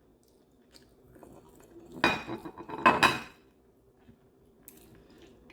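Dishes and cutlery clinking: two ringing knocks about a second apart, a couple of seconds in.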